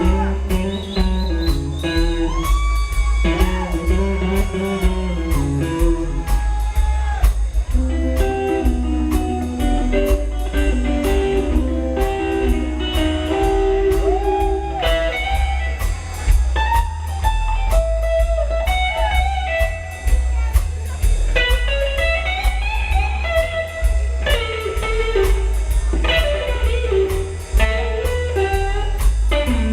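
A rockabilly band playing live, loud: twangy electric guitar lines, some with bent notes, over heavy bass and a steady drum beat.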